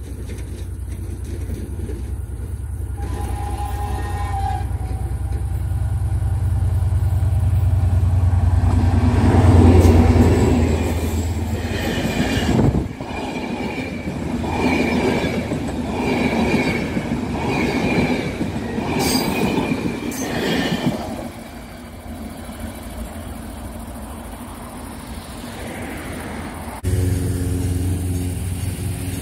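A diesel-electric locomotive of the EMD GT22HW-2 type approaches with a building engine rumble that is loudest as it passes, about ten seconds in. The passenger coaches then roll by with rhythmic wheel clacks over the rail joints, about one a second, and fade away. Near the end the sound cuts abruptly to a different steady hum.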